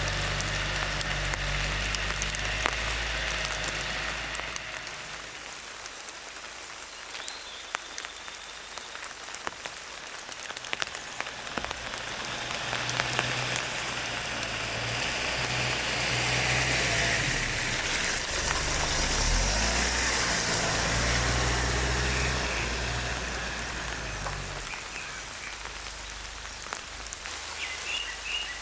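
Steady rain falling, a constant hiss with scattered raindrop ticks. A low rumble comes and goes underneath it.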